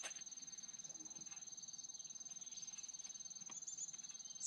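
High-pitched steady insect trill made of rapid even pulses, with a few faint clicks.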